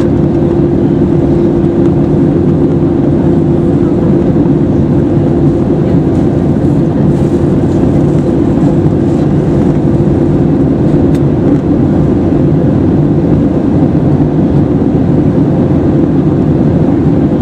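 Airbus A320-214 cabin noise in flight: a loud, steady rush of airflow with a constant engine hum from its CFM56-5B engines.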